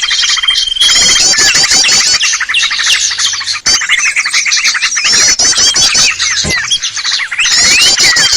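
Dense, busy chorus of many small songbirds chirping, trilling and whistling over one another without a break: a bird-lure (pikat) recording used to call small wild birds in.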